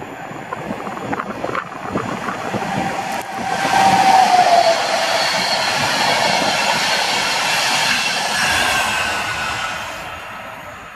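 Locomotive-hauled express passenger train passing close at speed on an electrified line: wheels clicking over the rails as it approaches, then a loud rush as it reaches the spot, with a tone that drops in pitch about four seconds in, and the steady roar of the coaches running past. The sound falls away sharply near the end.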